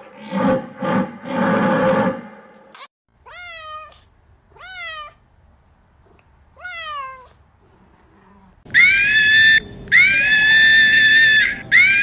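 A few deep, pulsed animal calls, then a domestic cat meowing three times, each meow rising and then falling in pitch. In the last few seconds, loud, high-pitched, drawn-out animal calls repeat about once a second.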